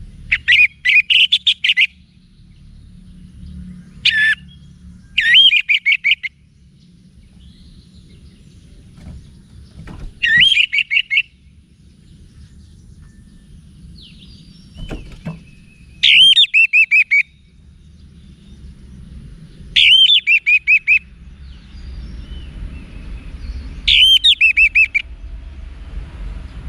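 Orange-headed thrush (anis merah) singing: short phrases of quick, warbled whistled notes, each about a second long, repeated every few seconds, over a faint low background rumble.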